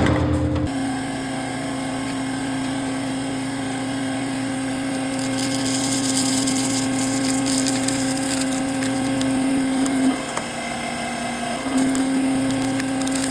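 The power unit of a 150-ton hydraulic press running with a steady hum. Its pitch and level sag for about a second and a half, about ten seconds in, then pick back up, as the press works against the Lego block.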